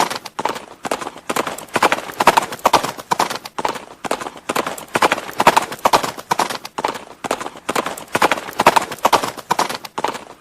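Horse hooves clip-clopping, sharp hoofbeats falling in quick groups that repeat about once a second.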